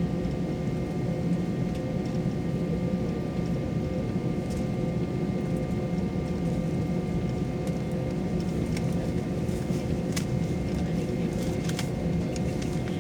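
Airliner cabin noise before takeoff: a steady drone of the jet engines and cabin air with several steady hum tones, and a few faint clicks near the end.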